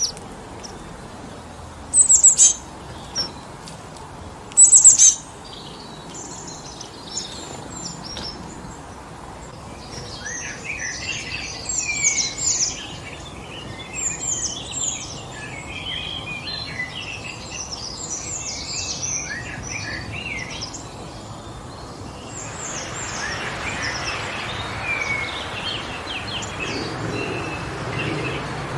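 Woodland birds chirping and calling over a steady wind in forest trees. Two loud, sharp calls come in the first few seconds, and a busy chorus of chirps follows from about a third of the way in. In the last quarter the wind rises into a stronger gust.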